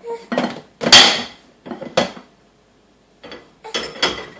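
Dishes and cutlery clinking and knocking as they are handled in a dishwasher rack: a run of sharp clatters, the loudest about a second in, a short pause, then more clinks near the end.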